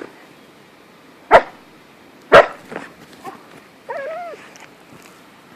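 Husky barking: two loud barks about a second apart, a few softer yips after them, and then a short wavering whine or woo near the end.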